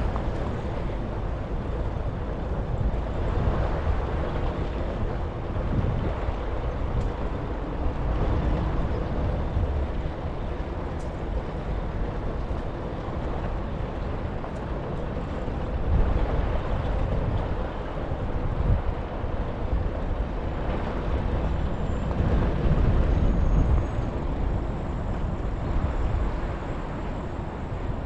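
Wind rushing over a GoPro's microphone on a moving bicycle, a steady low rumble that swells and eases, mixed with road traffic.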